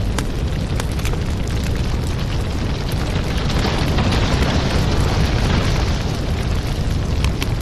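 Fireplace crackling: a steady low rush of burning wood with frequent small pops and snaps, the rush swelling a little in the middle.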